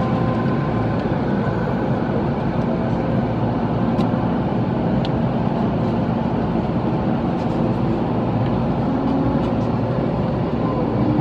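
Steady running noise heard inside a JR Yokohama Line electric commuter train car, wheels on rail with a faint motor tone and a couple of faint ticks about four and five seconds in.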